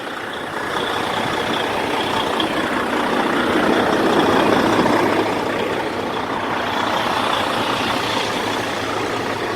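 Heavy diesel truck running close by: a steady rushing engine noise that swells about four to five seconds in and then eases back.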